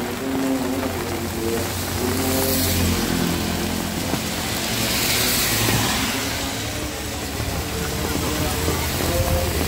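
Heavy rain with motor vehicles passing on a wet road: a low engine drone under a tyre-spray hiss that swells twice, about two and five seconds in.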